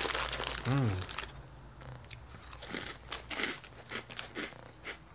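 A person chewing crunchy baked broccoli puff snacks (Sprout Organic Curlz), a run of irregular soft crunches, with a short hummed "mm" about a second in.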